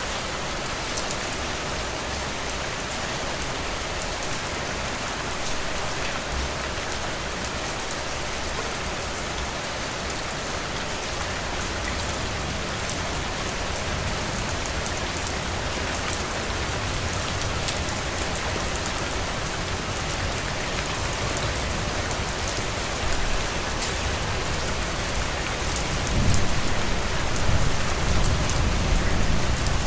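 Heavy rain pattering steadily on a roof, dense fine drops throughout. Near the end a low rumble swells in underneath and the rain grows louder.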